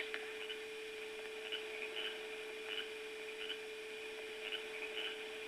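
Faint steady hum on the soundtrack with soft, short high chirps about once or twice a second.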